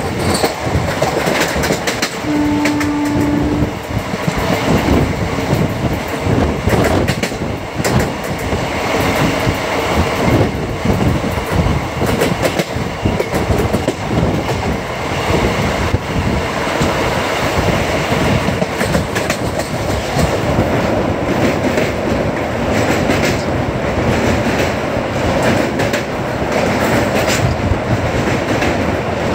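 Andaman Express train running at speed: a steady rumble of wheels on rail, broken by frequent irregular clicks over the track. About two seconds in there is a brief steady tone lasting just over a second.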